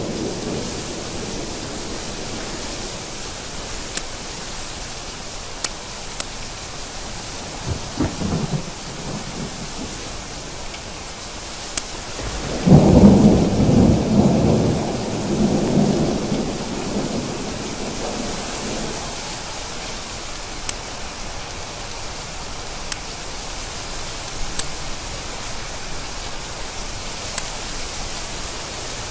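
Steady rain with thunder: a low rumble of thunder about thirteen seconds in that rolls on for some six seconds, a fainter rumble near eight seconds, and occasional sharp ticks over the rain.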